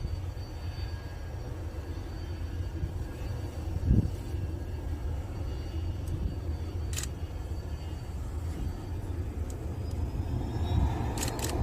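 Steady low rumble of a jet aircraft with a faint high whine that rises slightly near the end. There is a single thump about four seconds in and a few sharp clicks near the end.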